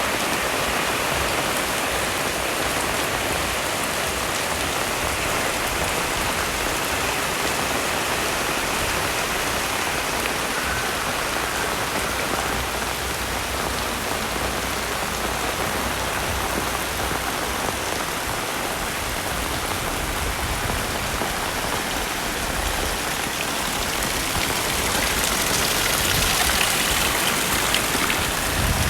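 Heavy rain falling steadily, an even hiss of water that grows a little louder near the end.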